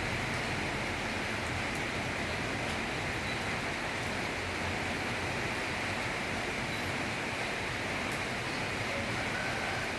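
Rainstorm: heavy rain falling steadily, an even hiss with a few faint ticks.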